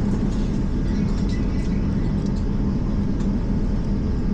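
Steady low rumble of an Airbus A350's cabin after landing, with a constant hum, and a few faint clicks and knocks scattered through it.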